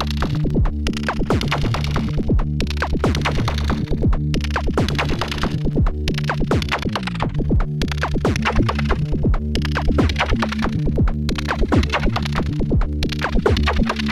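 Electronic jam on a Perkons HD-01 drum synthesizer: a dense, repeating synthesized percussion pattern over steady low synth tones.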